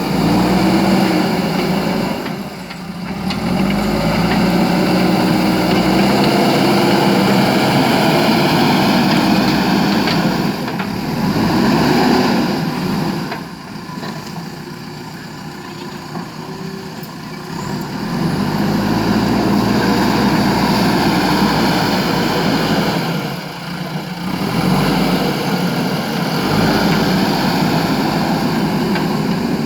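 JCB backhoe loader's diesel engine running and revving under hydraulic load, its pitch rising and falling as the machine works. It drops back toward idle briefly a few seconds in, for a longer stretch around the middle, and again later.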